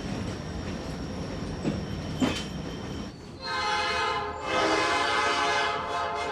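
Train riding along with a steady low rumble and a couple of sharp clanks, then the locomotive's horn sounds a chord: a short blast about three and a half seconds in, a brief gap, and a longer blast.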